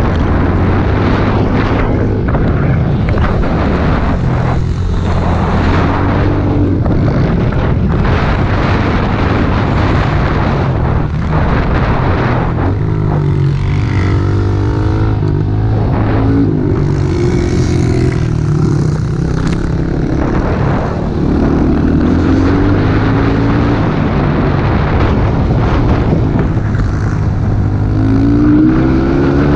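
Small single-cylinder four-stroke pit bike engine running hard, its pitch rising and falling with the throttle, with a rising rev near the end.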